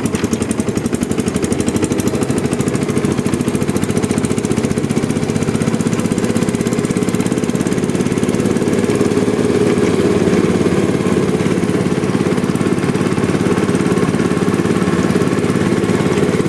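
Single-cylinder diesel engine of a tobata walking tractor running steadily under way, a rapid even chugging of firing pulses.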